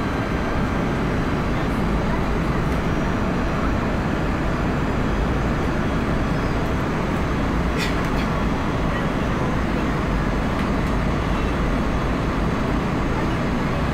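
Steady cabin noise of an Airbus A320, with engine and airflow noise heard from inside the passenger cabin, and a brief click about eight seconds in.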